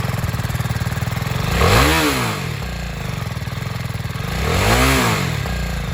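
BMW G310R's single-cylinder engine idling, blipped twice so that it revs up and drops back, peaking about two seconds in and again near five seconds.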